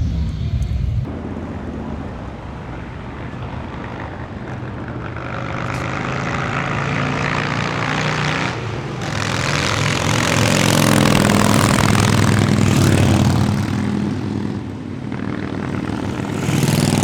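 Motorcycle engines running and being revved, growing louder towards the middle and again near the end.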